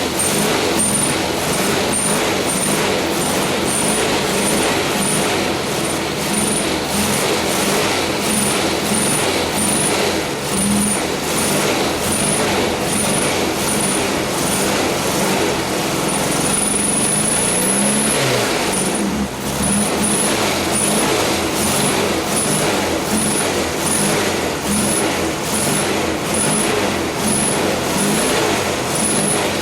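Air-cooled flat-four engine of a 1968 VW Type 3 Fastback running steadily after a cold start with no choke. A short high chirp repeats a little more than once a second over the engine noise, with a longer high whistle a little past the middle.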